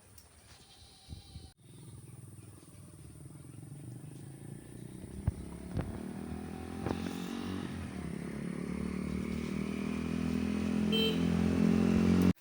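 A motor vehicle engine running steadily and growing louder as it approaches, then cutting off abruptly just before the end.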